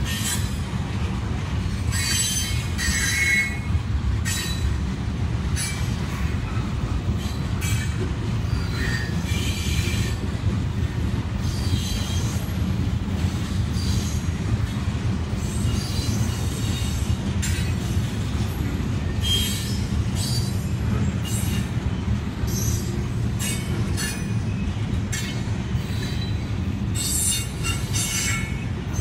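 Freight train rolling past: a steady low rumble of steel wheels on rail, with short high-pitched squeals and clanks from the wheels every second or so.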